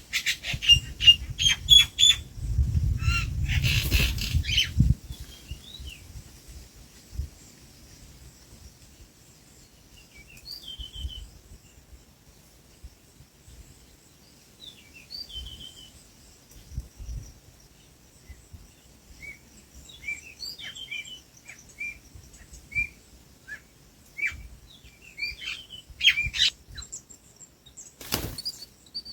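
Small birds chirping: short, high calls scattered on and off throughout. A loud, low rustling noise fills the first few seconds, and there is a single sharp, loud noise near the end.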